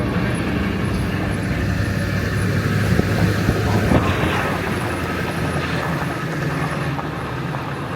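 Ford 7.3 L Power Stroke turbo-diesel V8 running as the truck drives, a steady low drone under road noise. Two brief knocks come about three and four seconds in.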